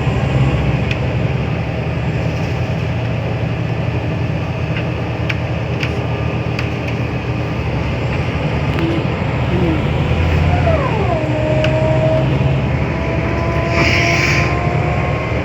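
Scania L94UA bus's diesel engine running steadily under way, with scattered rattles and clicks. About ten seconds in, a whine drops in pitch and then holds steady.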